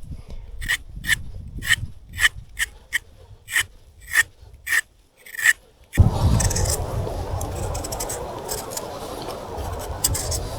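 About a dozen short, sharp scraping strokes, roughly two a second. About six seconds in they give way to a continuous, louder rough rubbing noise.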